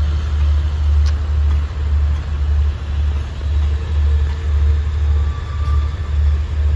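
Passenger train rolling slowly past, a deep rumble that pulses a little faster than once a second.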